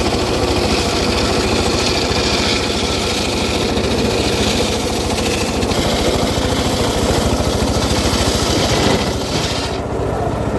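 Petrol engine of a wood-cutting saw running steadily at speed under load, with a wide hiss over a fast even pulse. The high-pitched part drops away near the end.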